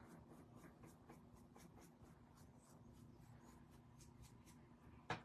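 Faint, quick strokes of a paintbrush laying acrylic paint on the craft piece, several a second, with one short louder sound near the end.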